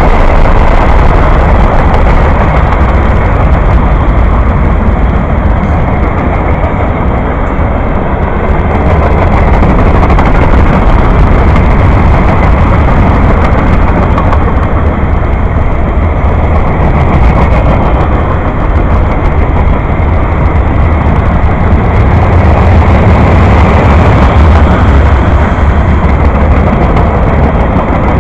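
Train passing close by: a steady, loud rumble of cars rolling over the rails, heaviest in the low end, with no let-up.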